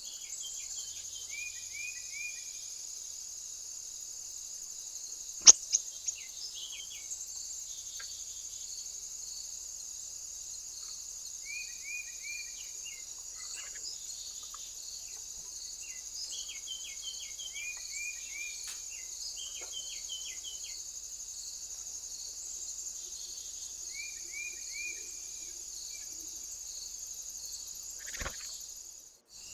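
A steady insect chorus with a bird calling in short runs of quick chirps every few seconds. About five seconds in there are three sharp clicks, the first loud, and a thump near the end.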